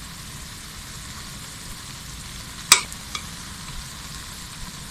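Unniyappam batter frying in ghee in the cavities of a paniyaram pan: a steady sizzle. A sharp click comes about two and a half seconds in, with a fainter tick just after.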